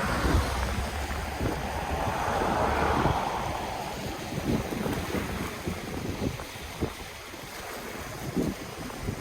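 Ocean waves washing on the shore: one wave swells up a second or two in and sweeps back, fading away. Wind buffets the microphone throughout, with low rumbles and thumps.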